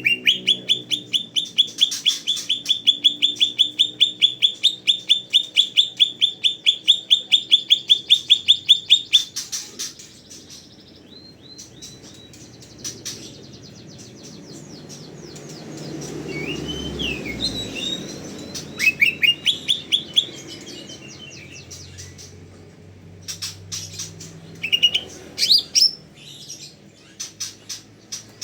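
Cucak ijo (leafbird) in full song: a long run of loud, evenly repeated high notes at about four a second, which stops about nine seconds in. Shorter, varied phrases with sliding notes follow later.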